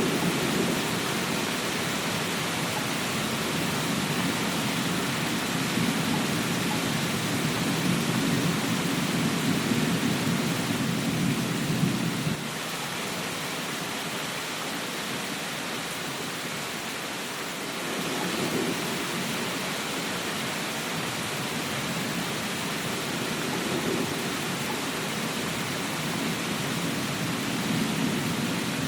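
Steady rain with low rolling thunder rumbling under it; the rumble stops abruptly about twelve seconds in and returns more faintly twice later on.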